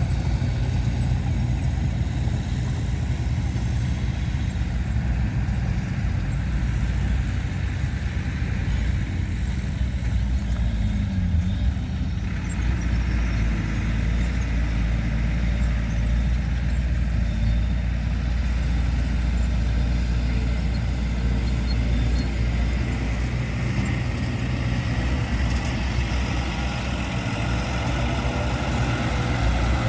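Heavy diesel earthmoving machinery (bulldozer and dump truck engines) running steadily, a deep engine sound that holds an even loudness throughout.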